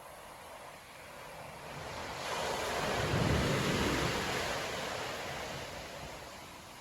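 A storm wave breaking on the beach in rough winter surf: the surf noise builds over about two seconds, peaks with a deep rumble about three seconds in, then washes out and fades.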